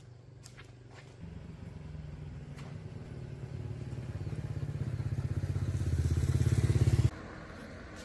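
An engine running with an even, rapid pulsing beat that grows steadily louder, then cuts off abruptly about seven seconds in.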